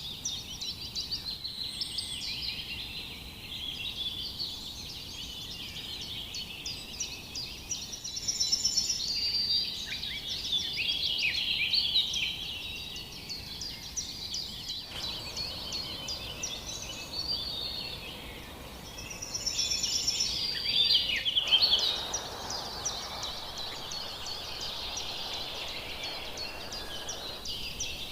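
Many birds chirping and singing at once in a dense chorus of short, overlapping high calls and trills, with a few louder bursts of song about 8 and 21 seconds in.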